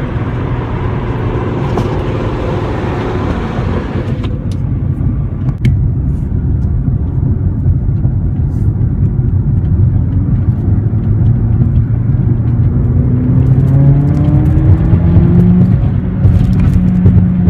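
Mercedes-Benz CLA45 AMG's turbocharged 2.0-litre four-cylinder engine and exhaust while driving. A rush of noise over the engine cuts off suddenly about four seconds in. Later the engine note climbs steadily in pitch as the car accelerates.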